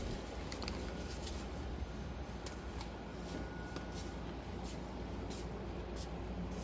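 Rustling handling noise with scattered small clicks over a steady low hum.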